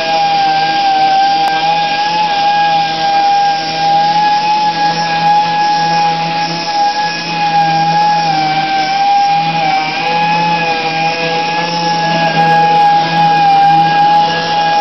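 Electric power sander running steadily against a stripped wooden door: a high, even motor whine over the hiss of abrasive on wood.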